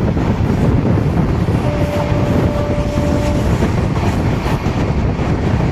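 Moving passenger train heard from on board: a steady running rumble of wheels on the track. About two seconds in, a thin steady whine rises above it for under two seconds.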